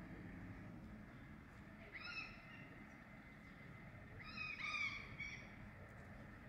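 A bird giving short, high calls: one about two seconds in, then three in quick succession around four and a half to five seconds, over a faint low background rumble.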